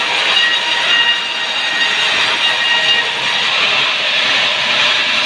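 Sawmill saw running through a sengon log: a loud, steady hiss with a faint thin whine in it that does not let up.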